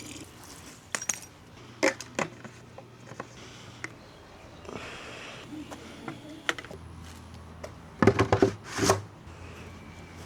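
Scattered light clinks and knocks of gear being handled, with a quick cluster of louder knocks about eight seconds in, over a low steady hum.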